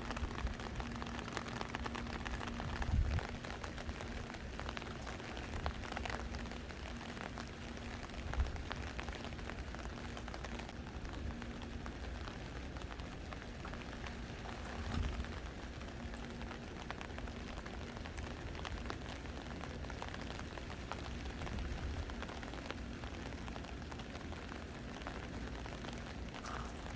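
Monsoon rain falling steadily on a surface, with a few dull low thuds about 3, 8 and 15 seconds in and a faint steady hum underneath.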